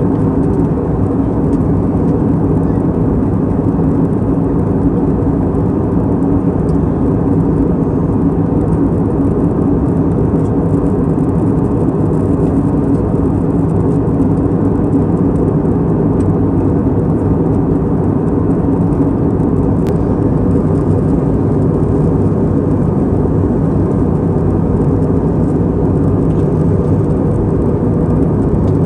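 Steady roar of an Airbus A320 airliner's engines and airflow, holding an even level throughout with a low hum underneath.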